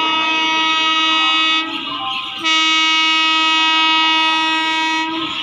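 Electric locomotive's air horn blowing two long, steady blasts with a short break about two seconds in; the second blast cuts off about five seconds in, leaving the noise of the passing train.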